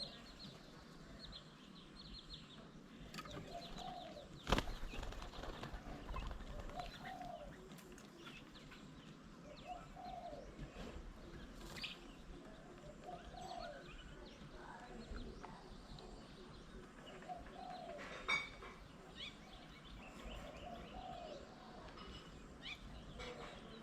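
Mixed birdsong around a garden bird table: a low, short call repeats every two to three seconds with scattered higher chirps over it. A sharp knock comes about four and a half seconds in, and another shorter one around eighteen seconds.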